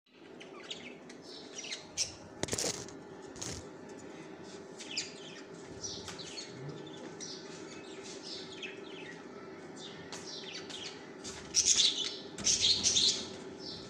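Small birds chirping again and again over a steady low hum. Near the end come two louder bursts of scratchy rustling as a paintbrush scrubs paint onto paper.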